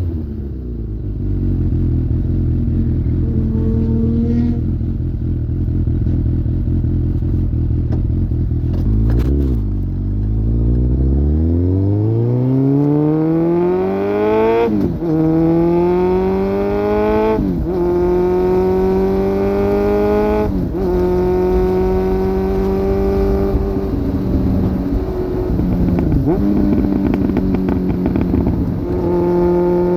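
2002 Suzuki GSX750F inline-four through a Black Widow aftermarket exhaust, idling steadily, then pulling away. It climbs in pitch through the gears, dropping back at three upshifts a few seconds apart, then settles into steady running with a few brief dips in throttle.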